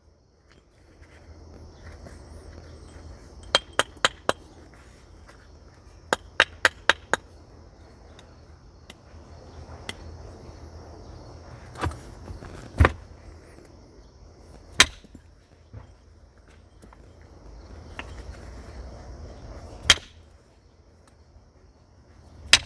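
Flint being knapped with natural tools: sharp stone-on-flint clicks, first in quick runs of four and five light taps, then single harder strikes a second or more apart as flakes come off the nodule.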